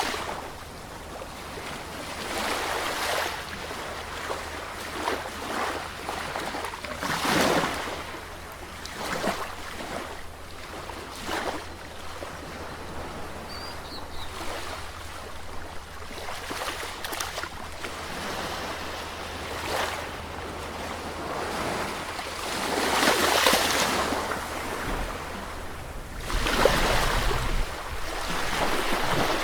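Sea waves washing in, a continuous rush with several swells that rise and fall over a second or two; the strongest come about two-thirds of the way through and near the end.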